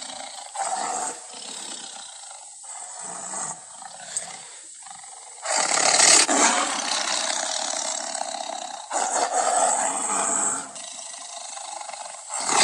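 Tiger sound effect: short, quieter growls for the first few seconds, then two loud roars, a long one starting about halfway through and a shorter one right after it.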